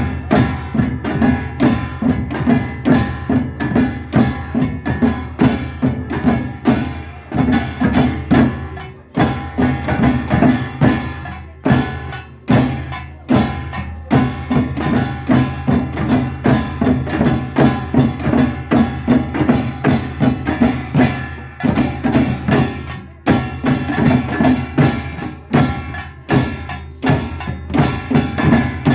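Live Korean traditional percussion: drums and ringing metal percussion struck in a fast, dense rhythm that carries on without a break.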